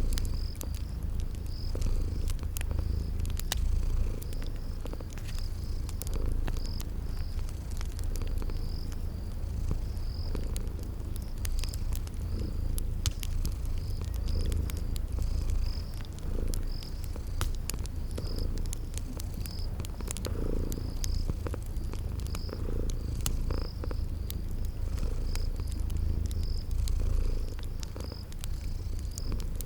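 A cat purring steadily, a continuous deep rumble that swells with each breath, over the crackle and pop of a wood fire and steady chirping of crickets.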